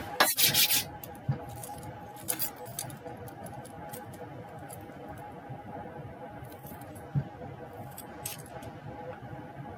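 Light jingling clicks in a quick cluster in the first second, then scattered clicks and taps, over a steady faint hum.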